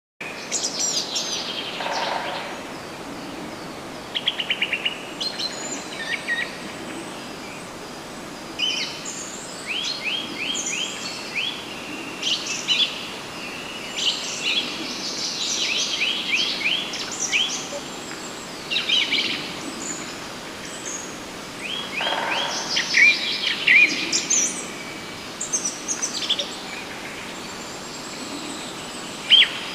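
Songbirds singing, with bursts of quick, high-pitched chirps and rapid runs of repeated notes coming again and again throughout, over a steady outdoor hiss.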